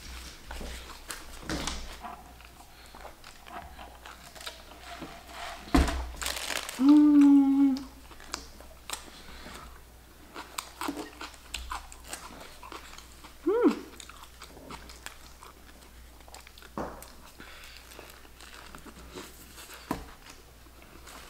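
Close-up mouth sounds of a person eating: biting, chewing and small crunches, with scattered clicks. About seven seconds in there is a short, loud hum, and near fourteen seconds a brief rising vocal sound.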